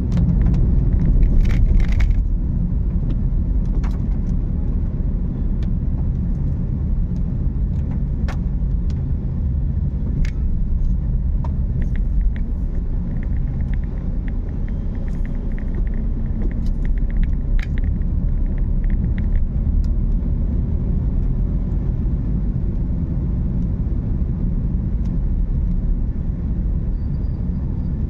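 Car on the move: a steady low road and engine rumble, with scattered light clicks and taps over it.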